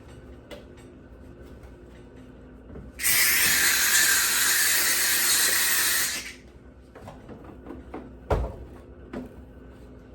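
McCulloch steam cleaner letting out a loud hiss of steam for about three seconds, starting about three seconds in and cutting off. A single knock follows a couple of seconds later.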